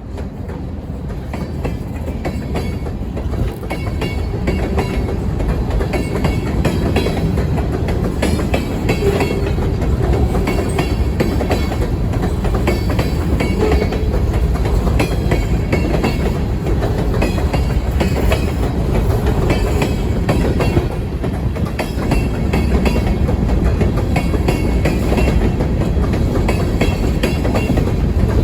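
Freight train of a Delaware-Lackawanna sand train rolling past, a steady rumble with wheels clacking over the rail joints.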